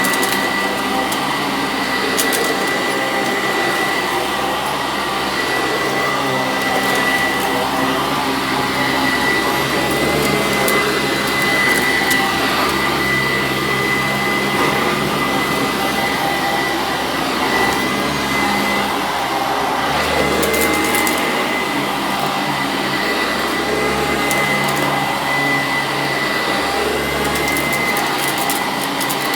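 Sanitaire SC886 commercial upright vacuum running steadily on carpet, with a steady high whine over the motor and brushroll noise.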